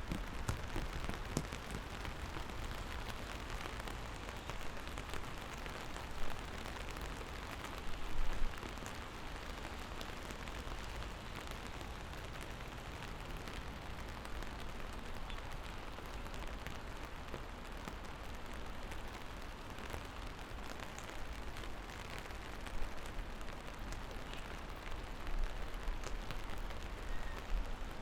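Steady rain falling on hard surfaces, an even hiss of drops, with a few brief low rumbles.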